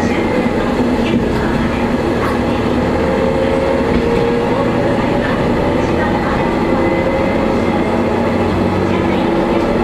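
Single-car diesel railcar running along the line, heard from inside the car at the front. The diesel engine drones steadily over the rumble of the wheels on the rails.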